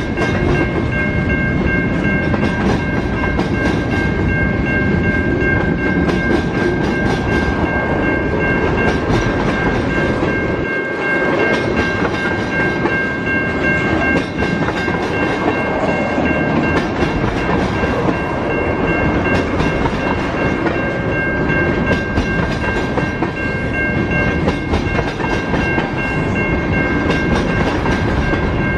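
A train passing close by, its wheels clattering continuously over the rails, with a steady high-pitched tone held over the noise.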